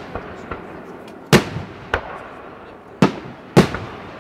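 Aerial shells of a WECO fireworks display bursting: four big bangs at uneven gaps of about half a second to a second and a half, with lighter cracks in between. Each bang fades out over a moment.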